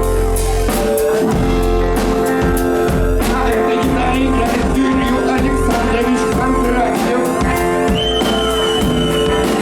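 Rock band playing live: electric guitars and bass over a drum kit with steady drum hits, and a high note held for about a second and a half near the end.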